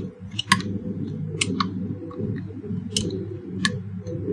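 Scattered small clicks and knocks of an electric iron's parts being handled and worked apart by hand, over a steady low hum.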